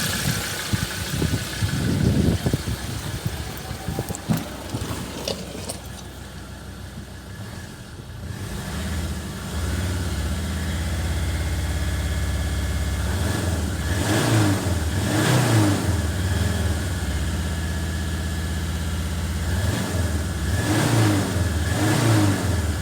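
Ford Ranger 3.2-litre five-cylinder diesel engine running. After some uneven knocks in the first few seconds it settles into a steady idle. It is revved briefly twice about two-thirds of the way in and twice more near the end.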